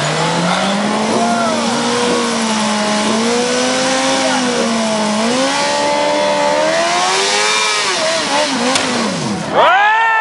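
Motorcycle engine revving up and down repeatedly over a steady hiss. A sudden sharper, louder rev comes near the end.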